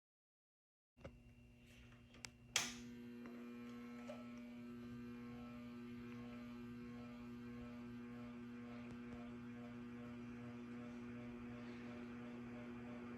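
Primavera Tropical ceiling fan switched on with a few sharp clicks, then its motor running with a steady electrical hum.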